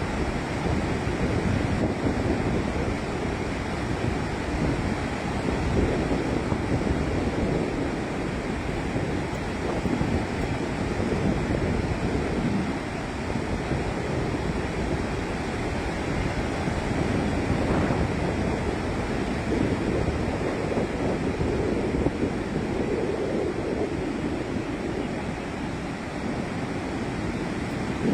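Floodwater rushing out of a dam's release, a steady heavy rush of water, with some wind on the microphone.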